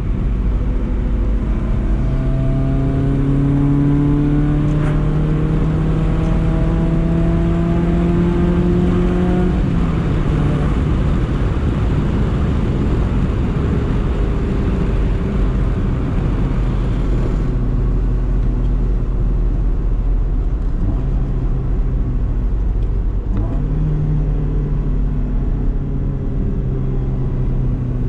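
BMW E30 318is's four-cylinder engine accelerating, its note rising slowly for several seconds, then dropping sharply about ten seconds in. After that it cruises with steady road rumble, the engine note holding steady again near the end.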